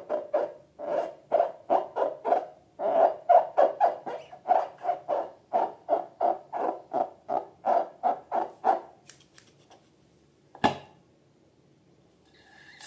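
Slime squeezed rhythmically by hand, making hollow squelching pops about three times a second, which stop after about nine seconds; a single sharp click follows a little later.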